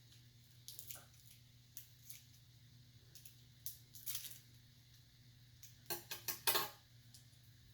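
Scissors snipping open a candy wrapper: scattered short snips and crinkles, with a louder run of them about six seconds in.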